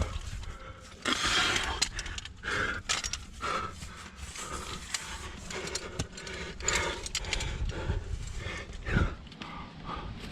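A climber breathing hard while moving up a rock chimney, with irregular scrapes, knocks and clicks of gear and body against the rock, over a steady low rumble.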